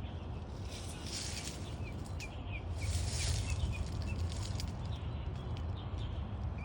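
Birds chirping outdoors: a quick run of short, high chirps about two to three seconds in, over a steady low background rumble with brief bursts of hiss.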